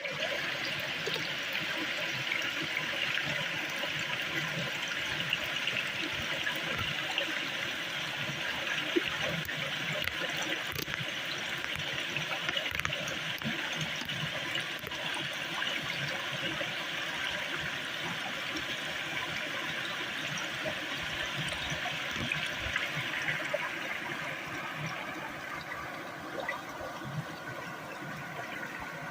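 Stream water running steadily with a continuous rushing hiss, a little softer near the end.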